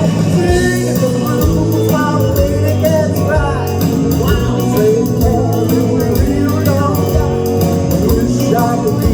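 Band playing a rock and roll tune with no sung words: a melodic lead line bending in pitch over bass and drums.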